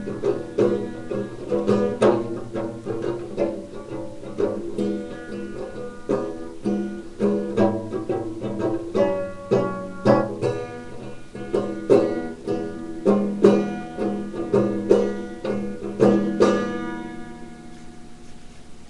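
Instrumental playing on a plucked string instrument, quick picked notes with no singing. The playing stops about two seconds before the end, and the last notes ring out and fade.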